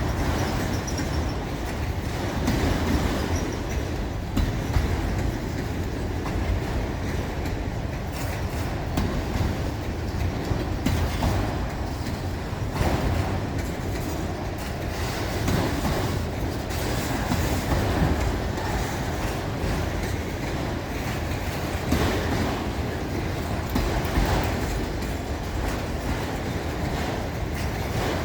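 Train rolling past, its cars' wheels rumbling and clacking over the rails in a steady run of noise with scattered knocks.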